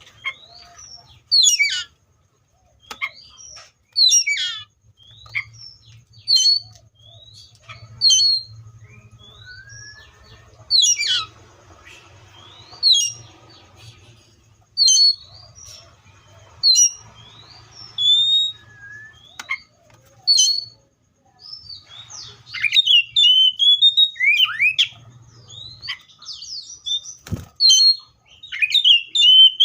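Seychelles magpie-robin singing: short, loud, sharply sweeping whistled phrases repeated every second or two, breaking into a faster, busier warble of rising and falling notes near the end. A single sharp click sounds near the end, over a faint low hum.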